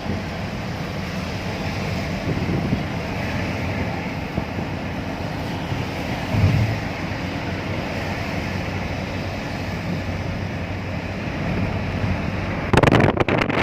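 Steady road and tyre noise with a low engine hum, heard inside a moving car on a rain-wet road. Near the end a sudden louder rushing noise sets in.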